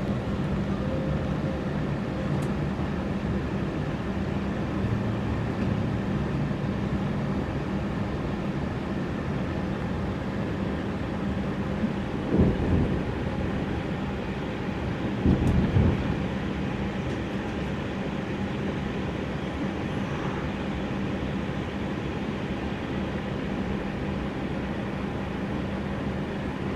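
Ride noise inside an electric train running into a station: a steady rumble of wheels on rail with a constant low hum. About 12 and 15 seconds in come two short bursts of louder clunking.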